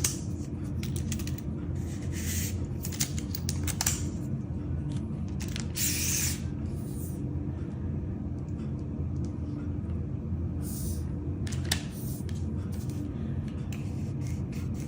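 Trekking pole being handled: scattered light clicks and scrapes, with a longer rasping scrape about six seconds in, over a steady low hum.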